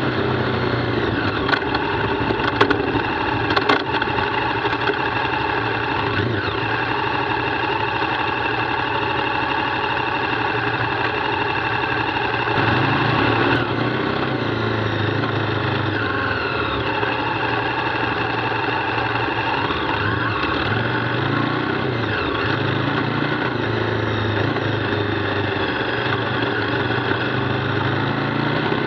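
KTM 990 Adventure's V-twin engine running as the motorcycle is ridden on gravel, its note rising and falling with the throttle as the bike slows and speeds up. A few sharp knocks come between about two and four seconds in.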